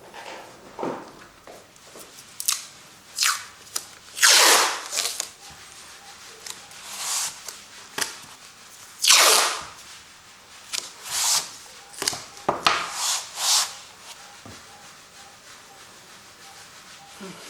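Acrylic paint being worked onto a canvas in a series of rubbing strokes. Two longer, louder strokes come about four and nine seconds in, with shorter ones between and after.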